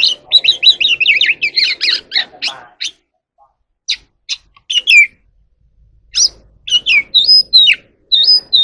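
Oriental magpie-robin singing: a fast run of varied chirps and whistles, a pause of about a second, then scattered notes and clear whistled phrases.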